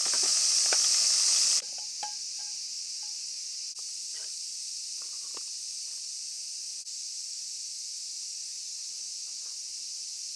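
Mapo eggplant sizzling and crackling in a pan over a campfire, cutting off suddenly about a second and a half in. A quieter steady high hiss with a few faint ticks follows.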